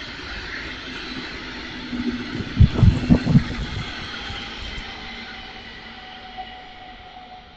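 Train running past and slowly fading away, with a quick cluster of four heavy clunks from its wheels on the track about two and a half to three and a half seconds in.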